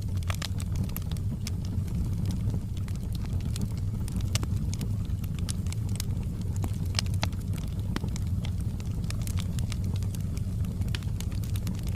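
Fire burning in a fireplace: a steady low rumble of flames with frequent crackles and sharp pops scattered throughout.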